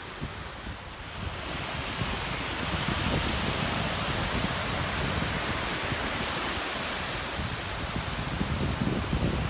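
Ocean surf washing onto a beach: a steady hiss that swells about a second and a half in and holds, with wind buffeting the microphone.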